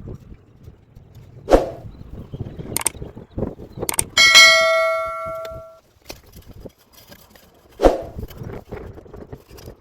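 Knocks and thuds from repair work, and about four seconds in a piece of metal is struck and rings for about a second and a half before dying away.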